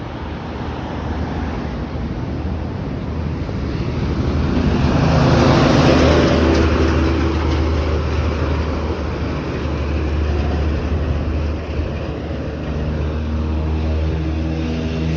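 Road traffic on a busy highway: a vehicle passes close by, its tyre and engine noise swelling to a peak about six seconds in and then fading, over a steady low engine hum from other traffic.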